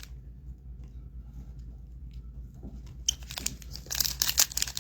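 Foil trading-card pack wrapper being torn open and crinkled, starting about three seconds in, with a faint low hum before it.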